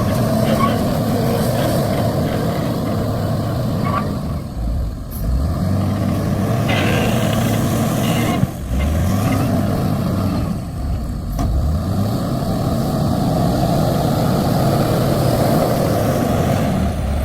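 A heavy vehicle's engine running, the revs rising and falling several times.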